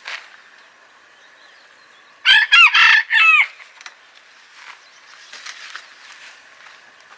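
A rooster crows once, loud, about two seconds in, a pitched call lasting about a second that breaks into a few arching segments.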